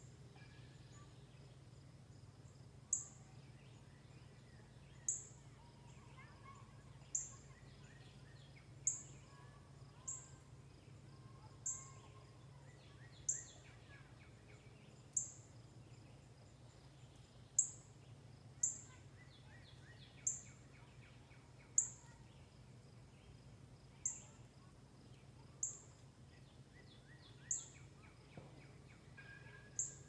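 A bird giving a short, very high-pitched chirp over and over, one every second or two; these are the loudest sounds. Fainter calls of other birds come in between, over a faint low hum.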